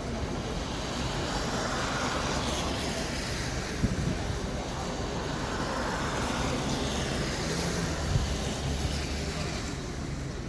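City street traffic: a steady wash of road noise, swelling as vehicles pass about two seconds in and again around the middle. Two brief knocks stand out, one just before halfway and one near the end.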